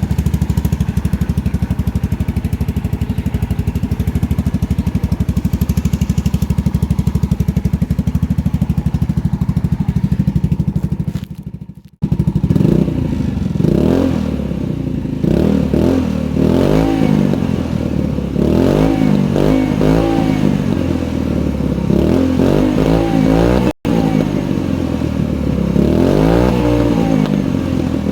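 Polaris Ace 150's engine running through a newly welded-on aftermarket muffler: steady idle at first, then, after a cut about twelve seconds in, revved up and down in repeated blips.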